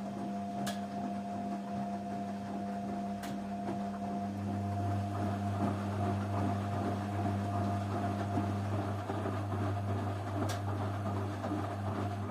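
Washing machine running, its motor giving a steady hum with a higher whine above it and a few light clicks.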